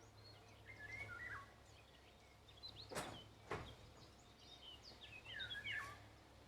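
Songbirds chirping faintly in short, quick phrases, once about a second in and again near the end, over a low steady hum. Two sharp knocks about half a second apart in the middle are the loudest sounds.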